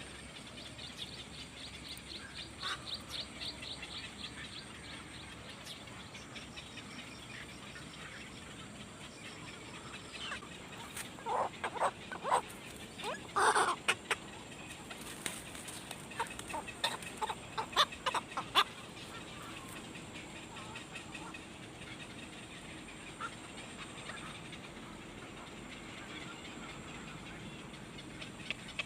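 Birds calling: a fast run of high chirps in the first few seconds, then a cluster of louder short calls in the middle, over a steady background hiss.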